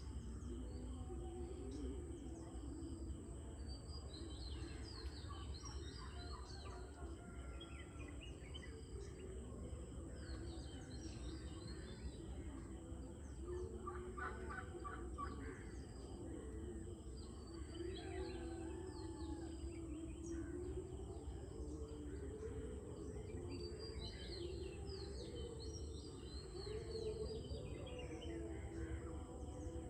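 Early-morning bird chorus: many birds chirping and trilling in overlapping calls, with lower wavering calls mixed in, over a steady high-pitched hum and a low rumble.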